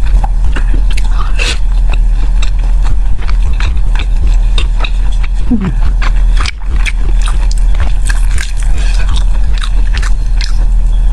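Close-miked chewing of a shiitake-and-pork sticky-rice zongzi: many small wet mouth clicks and smacks over a steady low hum.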